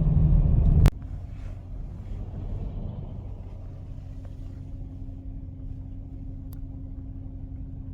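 Engine and road rumble inside a moving truck's cab, loud for about a second, then cutting off abruptly with a click to a much quieter steady engine hum.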